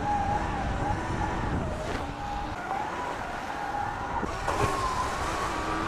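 Sur-Ron electric dirt bike's motor whining, its pitch wavering up and down with the throttle, over a low rumble.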